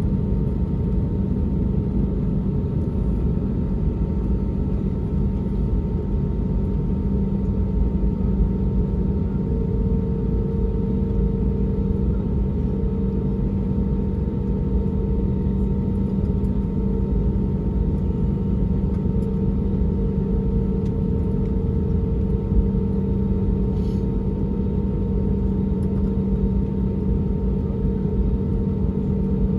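Steady cabin drone of an Airbus A320neo with its CFM LEAP-1A turbofans running: an even low rumble with a few constant hums, unchanging throughout.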